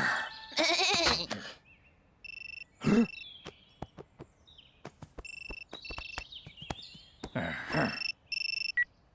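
Farm animals calling: a wavering cry about half a second in, another about three seconds in and a third near the end. Sharp clicks and several short, steady high tones sound between the cries.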